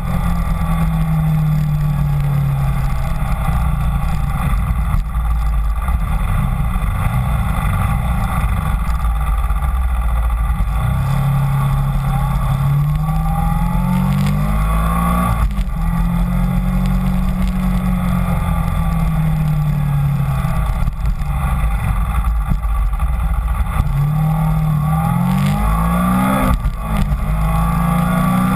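Kawasaki Ninja 250 motorcycle engine running under way, with wind rumble on the microphone. Its pitch falls as the bike slows early on and again a little after halfway. It climbs as the bike accelerates through the gears about halfway through and again near the end, dropping back at each shift.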